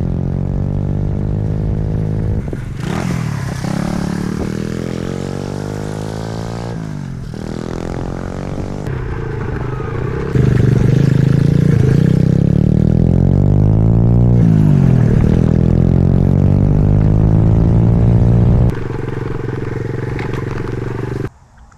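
Small pit bike engine running and being revved, its pitch rising and falling several times. It is louder for several seconds in the middle, then cuts off suddenly near the end.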